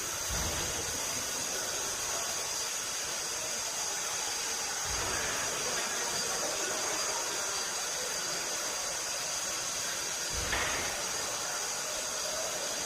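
Steam locomotive standing with a steady soft hiss of escaping steam, broken by three brief low rumbles: shortly after the start, about five seconds in, and near the end.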